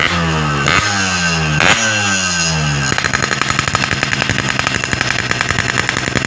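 Yamaha RX King's single-cylinder two-stroke engine being blipped through its exhaust: three sharp throttle snaps, each with the revs falling away, then steadier running from about three seconds in.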